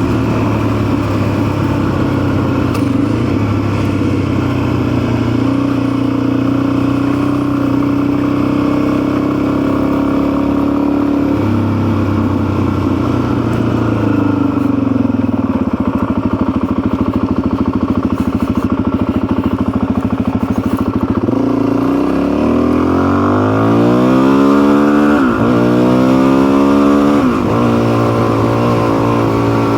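Custom motorcycle's engine running steadily under way. About two-thirds through, its revs climb and drop back several times, as when accelerating up through the gears.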